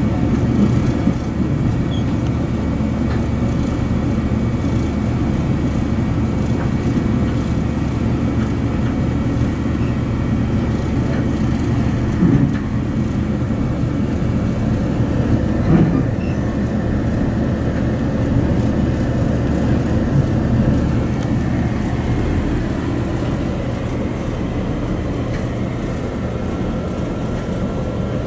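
Passenger train running at speed, heard from aboard: a steady rumble of wheels on the rails, with a couple of brief louder bumps about halfway through.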